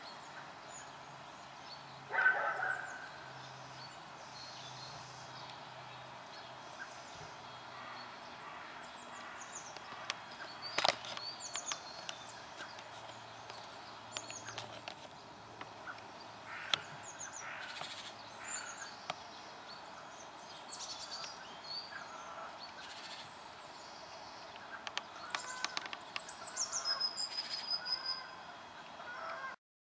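Scattered wild bird calls and short high chirps, with a louder call about two seconds in and a high falling whistle near the end, over a faint low hum.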